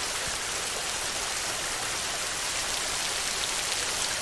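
Rain falling steadily on a metal roof: an even hiss with scattered drop hits.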